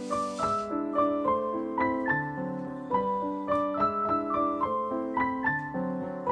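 Background piano music: a gentle melody of notes played one after another over sustained chords. A brief hiss is heard at the very start.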